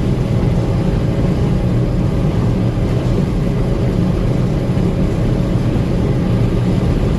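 Gleaner M2 combine running steadily under load while harvesting corn, a loud, even drone of engine and threshing machinery.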